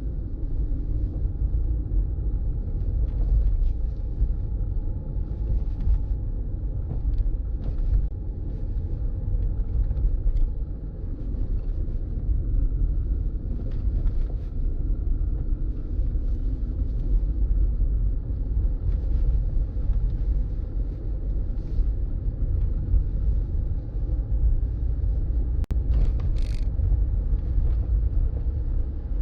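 Steady low rumble of a car driving: road and wind noise, with a few brief sharp clicks, the clearest about 26 seconds in.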